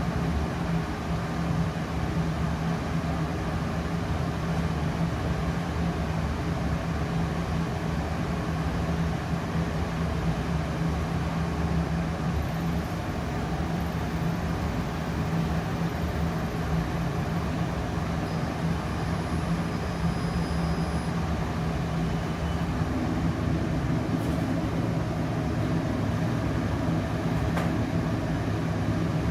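Trotec Speedy 100 laser cutter running: a steady machine hum and whir with no pauses.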